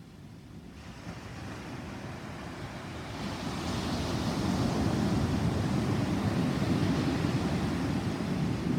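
Thunder rumbling low during a thunderstorm, swelling about a second in, growing louder around three seconds in and holding until near the end.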